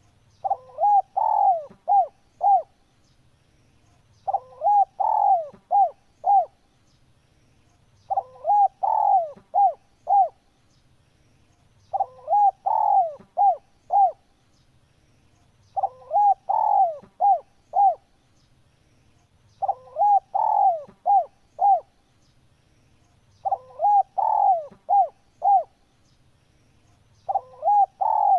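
A male spotted dove (tekukur) cooing: the same phrase of several coos, ending in a few short clipped notes, repeated about every four seconds.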